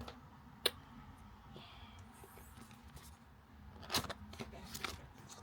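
Sealed product box being opened by hand: a sharp click, faint scratching, then a cluster of crackles and scrapes about four seconds in as the seal is peeled and the box handled.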